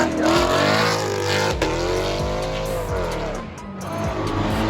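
Car engine revving hard with tires squealing through a burnout, the revs swinging up and down and easing off briefly about three-quarters of the way through.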